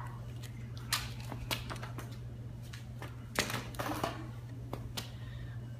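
Scattered light clicks and rustles of small toys and paper being handled, about six of them, over a steady low hum.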